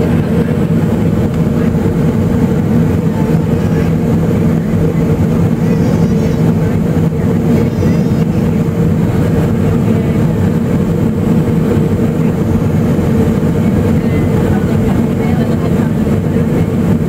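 Steady cabin noise inside a Boeing 757 airliner on final approach: jet engines and rushing air make an even, unbroken drone with a few low hum tones held throughout.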